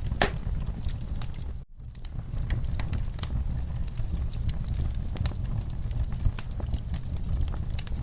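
Wood fire crackling, with many irregular sharp pops and snaps over a steady low rumble. The sound cuts out for an instant a little under two seconds in.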